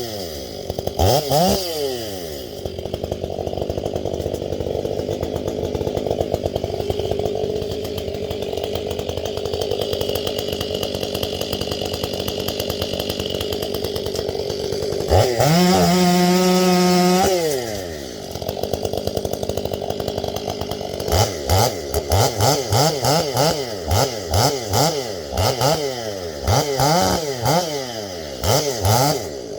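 Chainsaw engine idling, revved to full throttle and held there for about two seconds around the middle, then blipped up and down over and over near the end.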